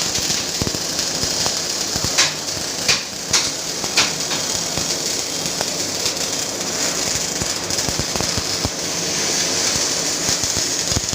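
Panasonic welding robot's arc crackling steadily, with four sharper, louder pops about two to four seconds in.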